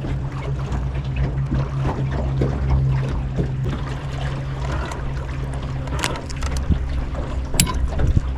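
Jon boat's motor running steadily with a low, even hum. A few sharp knocks come near the end.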